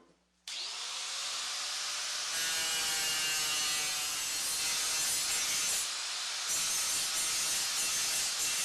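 A small power tool starts suddenly and spins up, then runs steadily against metal with a rough, scraping hiss, typical of wire-wheel or abrasive stripping during a rust-and-paint restoration. It eases off briefly a little past halfway, then carries on.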